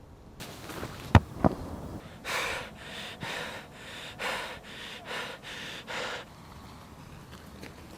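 Two sharp clicks, then a run of about six loud, breathy puffs in quick succession, like heavy snorting or panting breaths.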